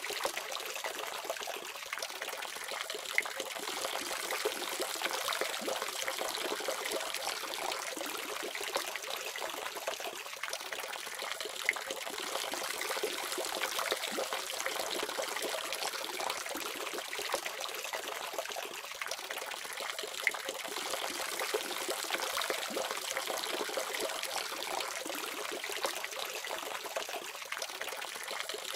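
Water faucet running steadily, a continuous splashing stream of tap water with no low rumble.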